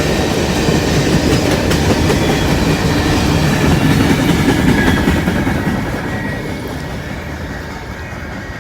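Freight train cars rolling past on the rails, a heavy rumble with wheel clatter. The sound fades steadily over the last three seconds as the train moves away.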